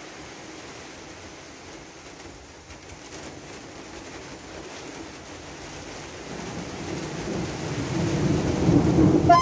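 Train approaching along the track: over a steady background hiss, a low rumble of wheels on rail builds from about six seconds in and grows steadily louder. A brief high tone cuts in at the very end.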